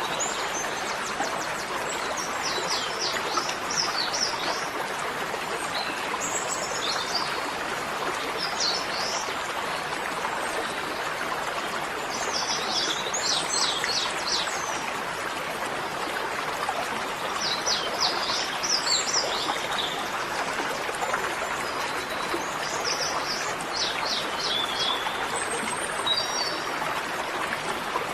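Small birds singing short phrases of quick, high chirped notes, repeated every few seconds over a steady rushing noise like running water.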